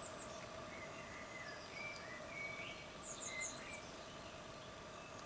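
Garden birds chirping faintly: a few short high chirps, most of them about two to three seconds in, over a steady faint hum.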